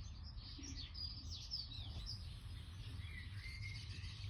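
Small birds singing: quick high chirps and warbling notes, over a low steady background rumble.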